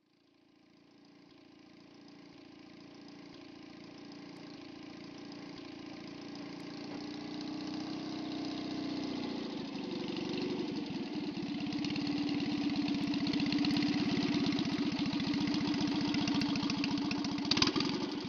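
Citroën 2CV air-cooled flat-twin engine running on a home-built motorcycle made from 2CV parts. It grows steadily louder over the first dozen seconds, then holds a steady run, with a brief sharp louder pop near the end.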